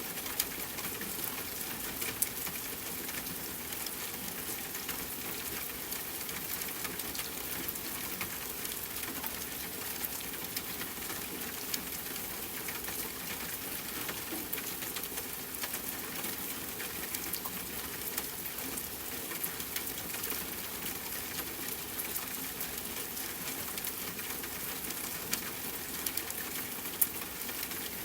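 Steady rain falling with a campfire crackling, a few sharp pops standing out above the patter.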